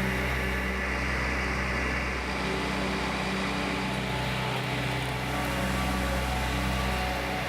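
A steady machine hum with several held tones and a low drone underneath, unchanging throughout.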